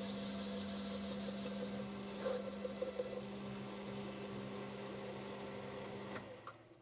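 Metal lathe running with a steady hum while turning a flame-cut part, with some irregular scratchy cutting noise about two to three seconds in. The machine stops about six seconds in.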